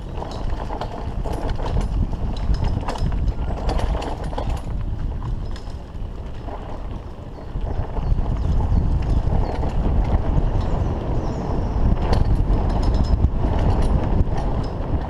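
Mountain bike rolling along a dirt trail: tyre noise with the frame and chain rattling in quick clicks and knocks, and wind buffeting the camera microphone, heavier from about eight seconds in.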